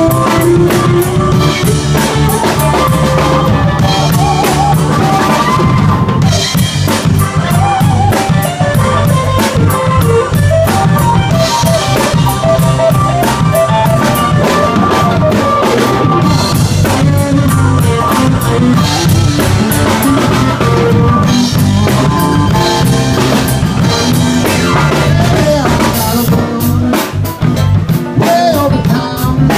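Blues band playing live, loud and steady, with the drum kit's snare and bass drum driving a regular beat under a wavering melodic lead line.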